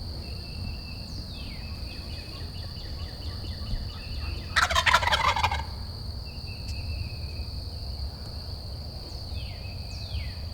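Eastern wild turkey gobbling once, a loud rattling call about four and a half seconds in, over a steady high-pitched insect drone and short songbird notes falling in pitch.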